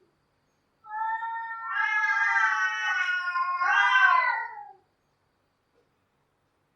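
A cat's long drawn-out yowl, wavering in pitch and swelling to its loudest near the end before it falls away. It runs about four seconds and starts about a second in.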